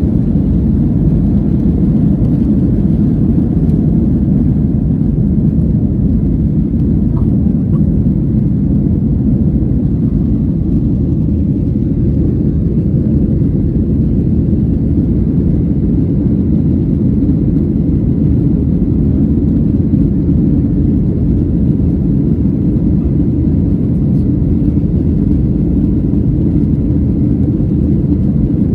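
Boeing 737-800's CFM56-7B jet engines running with a loud, steady low rumble that neither rises nor falls.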